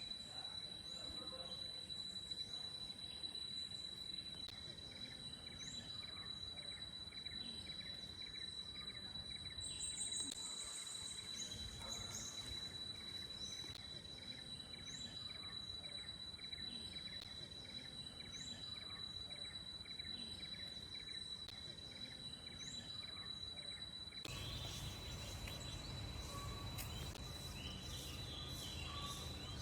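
Tropical rainforest ambience: a steady high-pitched insect whine under short bird calls repeating every second or two. About three-quarters of the way through the sound shifts, with a low rumble coming in and the bird calls growing busier.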